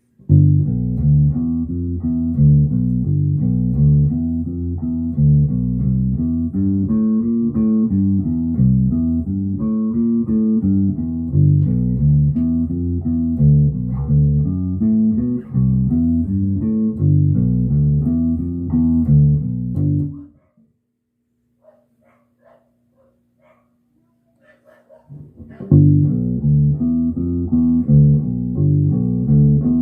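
Electric bass guitar played through an Ampeg BA-110 bass combo amp, a run of plucked notes. The playing stops about two-thirds of the way in, leaving only a faint amp hum, and starts again about five seconds later.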